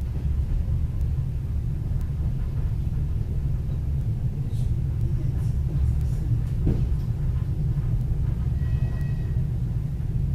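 Passenger coach of a diesel-hauled suburban train rolling along the track, heard from inside the carriage: a steady low rumble. A brief faint high tone sounds about three-quarters of the way through.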